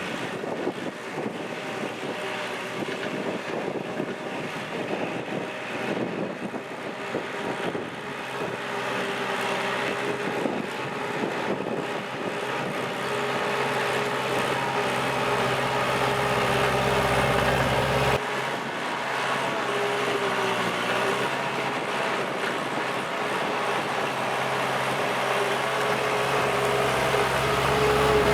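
Kubota L4708SP tractor's diesel engine running steadily under ploughing load, gradually getting louder over the first half.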